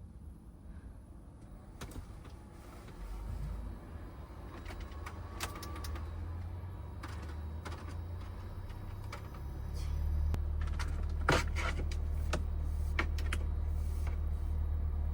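Low steady rumble of a van's engine running, stepping up louder about ten seconds in, with scattered clicks and knocks of handling in the vehicle.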